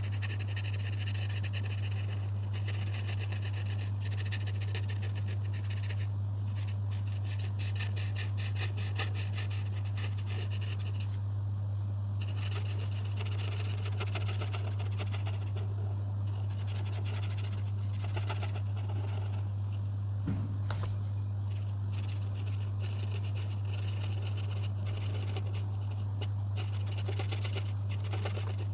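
Coloring on paper: repeated rapid scratchy strokes of a coloring tool, coming in stretches with short pauses, over a steady low hum.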